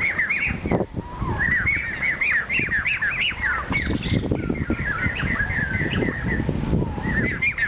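Songbirds chirping and warbling in quick runs of short rising and falling notes, over a loud low rumble with frequent knocks.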